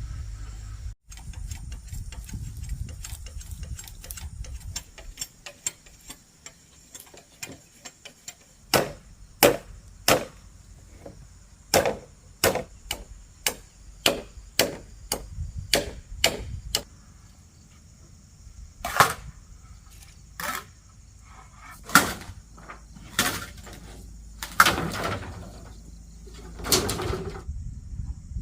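A run of sharp knocks, like blows from a tool on wood, about two a second, then more widely spaced. A steady high hum runs underneath.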